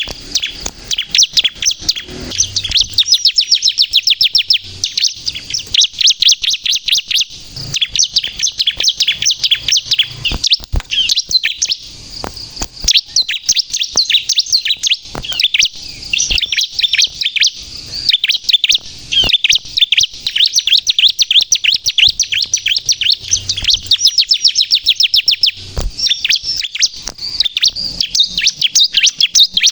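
Bar-winged prinia (ciblek, the 'kristal' type) singing loudly and persistently: a rapid, unbroken run of high, sharp chirps, many each second, with only brief pauses.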